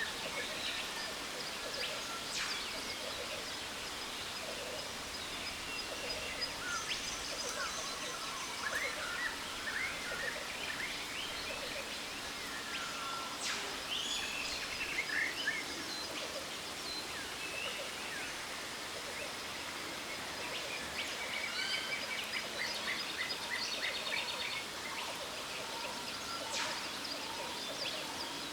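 Jungle waterfall ambience: the steady rush of falling water under many birds chirping and trilling, with a bird repeating a short note about twice a second near the end.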